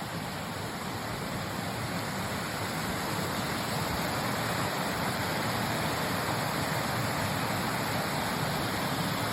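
Steady rush of a mountain creek running over a series of small cascades, growing a little louder over the first few seconds.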